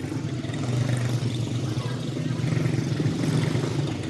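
A field of small Jr Animal class race cars running together, their Briggs & Stratton Animal single-cylinder engines making a steady, dense drone.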